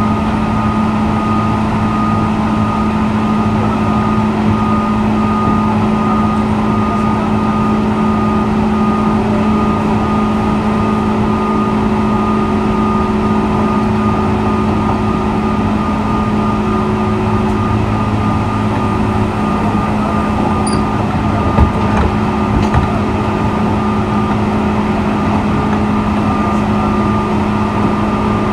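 JR 201-series electric train at a standstill, its onboard equipment humming steadily with a few constant tones; one short sharp click about three-quarters of the way through.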